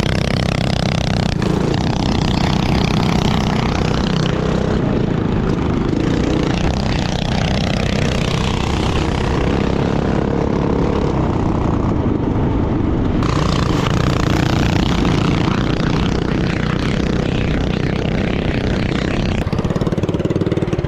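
Mini bike's small single-cylinder engine running steadily under way while riding, with the sound shifting a little as the throttle changes.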